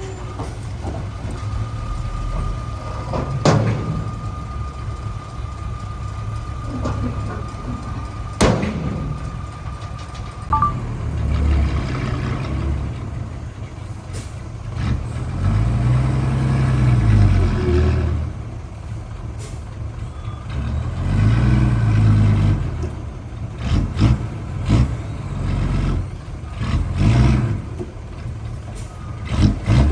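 Heavy diesel earthmoving machinery running under load, the engine revving up and back down several times in slow surges. A steady high-pitched tone sounds for about the first ten seconds, and two sharp knocks come a few seconds apart.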